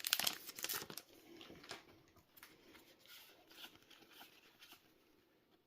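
Foil booster-pack wrapper crinkling with sharp clicks for about the first second, then soft rustling and light ticks as the trading cards are handled, fading out near the end.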